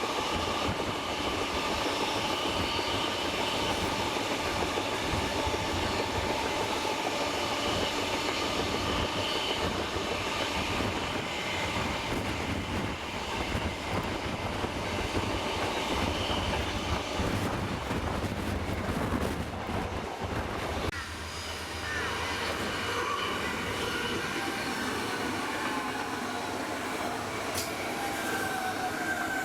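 Railway carriages rolling along the track during a steam train ride: a steady rumble and rattle of wheels on rails. About two-thirds of the way through, the deep rumble drops away and high squealing tones slide down in pitch.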